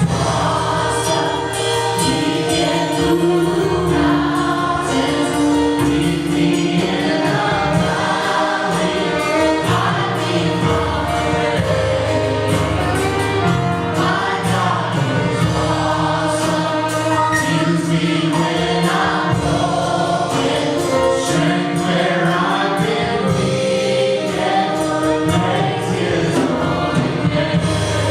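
A worship band and congregation singing gospel praise music, with a steady bass line and drums.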